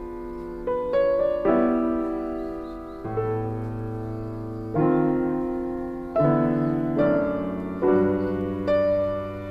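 Background piano music: slow, gentle chords struck every second or two, each left to ring and fade.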